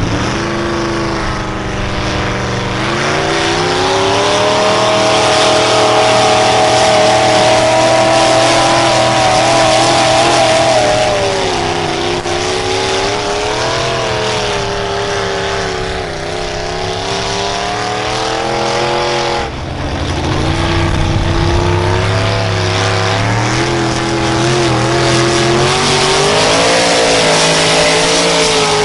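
An engine working hard under load as a puller drags the sled. Its pitch climbs over the first few seconds, then wavers up and down, breaks off suddenly about twenty seconds in, and climbs again toward the end.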